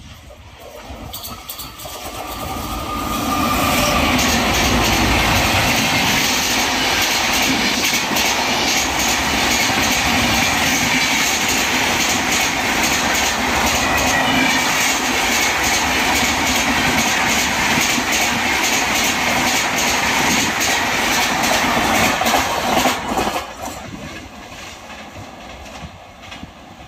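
Express train hauled by a WAP-5 electric locomotive passing at high speed, its wheels clattering over rail joints. The sound builds over the first few seconds as the train approaches and holds loud and steady while the coaches rush by. It falls away suddenly about 23 seconds in as the last coach passes.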